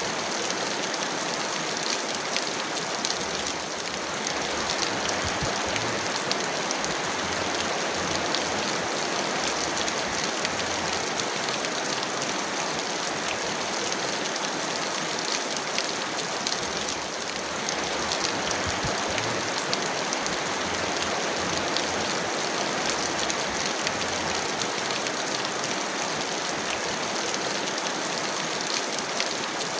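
Heavy rain falling steadily, a dense even hiss of rain with many small drop ticks and no let-up.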